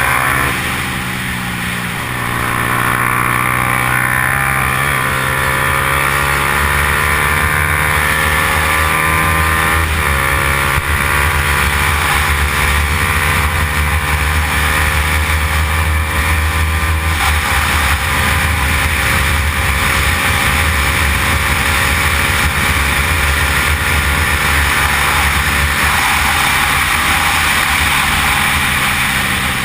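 Yamaha YZF-R15 racing motorcycle's single-cylinder four-stroke engine running hard at high revs, its pitch climbing steadily in long pulls broken twice, about ten and seventeen seconds in, by brief dips as it shifts gear.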